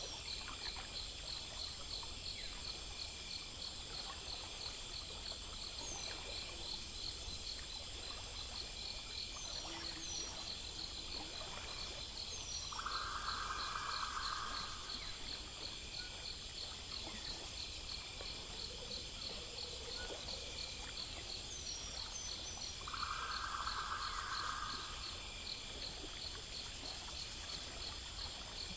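Night chorus of crickets and other insects: steady, pulsing high trills over a faint wash of running water, with short high chirps scattered through it. Twice a louder, lower buzzing call lasting about two seconds stands out, about halfway through and again near the end.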